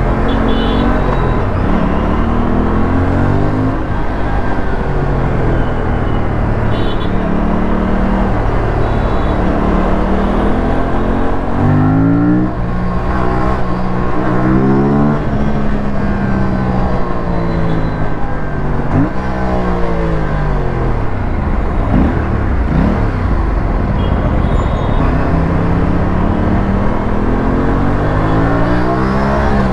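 Aprilia RS457's parallel-twin engine and exhaust revving hard while riding, the pitch climbing and falling again and again as it accelerates, shifts and backs off, over a steady rush of wind and road noise.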